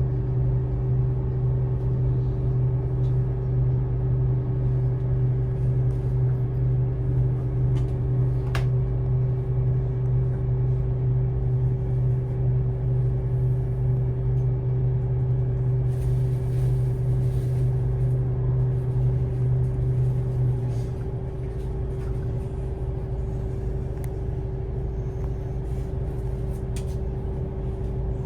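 City bus running, heard from inside the passenger cabin: a steady engine and road drone with a strong low hum. The hum drops away and the sound gets a little quieter about three-quarters of the way through.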